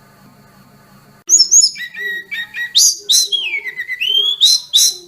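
A tledekan gunung (sulingan gunung) songbird singing a flute-like whistled song, starting about a second in. It gives a run of clear notes and slurs, among them a long whistle falling in pitch and another rising.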